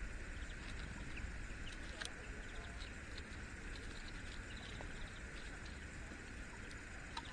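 Outdoor ambience: scattered faint, short bird chirps over a steady low rumble of wind or distant background noise.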